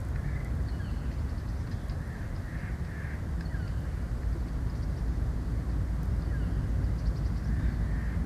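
Corvid cawing: several harsh caws scattered through, over a steady low rumble.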